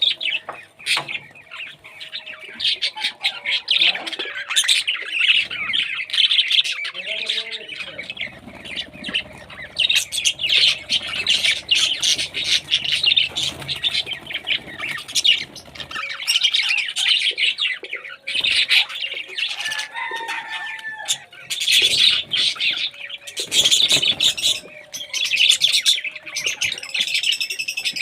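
Many parrots chattering and squawking together: a dense, unbroken stream of high chirps with sharp squawks rising out of it.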